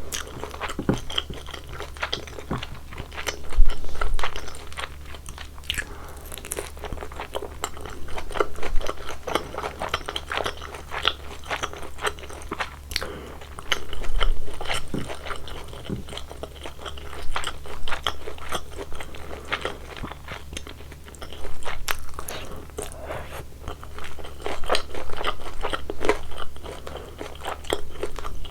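Close-miked crunching and chewing of crispy deep-fried glutinous-rice-batter pork (chapssal tangsuyuk) in sweet and sour sauce, with irregular crackling and louder crunchy bites every few seconds.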